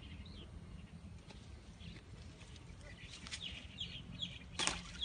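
Birds chirping in short falling calls several times over a low steady rumble, with one brief sharp noise near the end.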